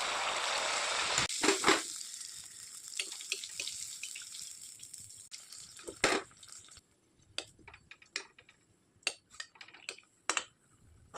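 Kitchen sounds: a loud steady hiss cuts off suddenly about a second in. A fainter hiss then fades out over the next few seconds, followed by scattered clinks and taps of utensils.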